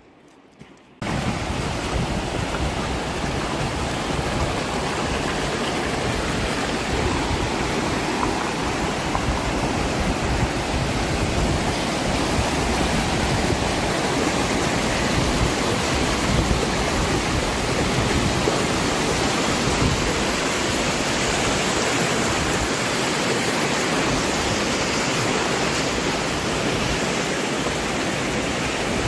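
Fast, turbulent river water rushing steadily, starting abruptly about a second in.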